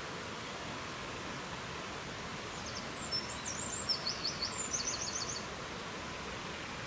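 Steady rushing hiss of a natural ambience. A small songbird sings one short, high phrase of quick notes, ending in a rapid trill, starting between two and three seconds in.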